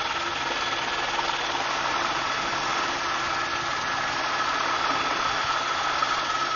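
Engine running steadily: a constant drone with a steady hum and a faint whine on top.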